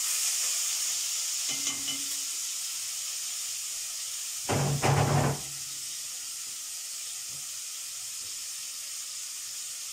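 Garlic sizzling steadily in hot oil in a frying pan, with one short loud knock about four and a half seconds in.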